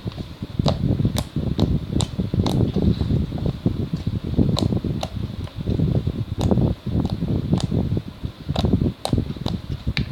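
Slime being worked by hand, giving frequent short sharp clicks and pops at an irregular pace, over a steady low rumble of wind on the microphone.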